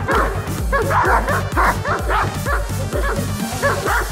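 A dog barking and yipping repeatedly over music with a steady bass beat.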